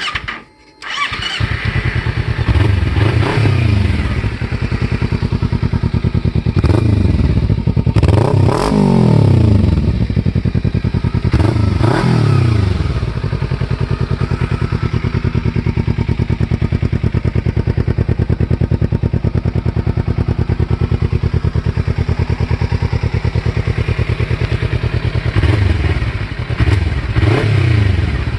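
2014 Kawasaki Ninja 300 parallel-twin engine, its stock muffler drilled with extra holes for more growl, starting about a second in. It idles steadily, with several quick throttle blips that rise and fall in pitch.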